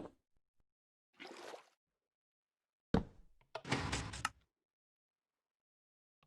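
A homemade dispensing machine being worked: a soft scrape, a sharp click about three seconds in, then a sliding rattle with several small clicks lasting about a second.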